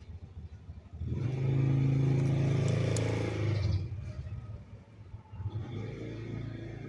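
A motor vehicle engine running loudly for about three seconds, then fading, with a second, quieter engine sound starting about a second and a half later.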